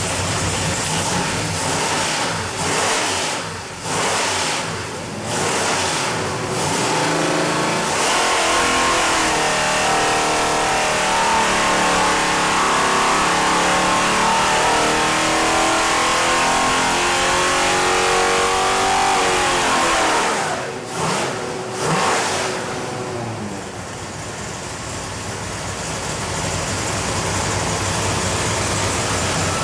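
Big-block Chevrolet 540 V8 on an engine dyno. It gives a few short throttle blips, then makes a sustained full-load pull lasting about twelve seconds. Around twenty seconds in the throttle shuts, and it settles back to a lower, steady running sound.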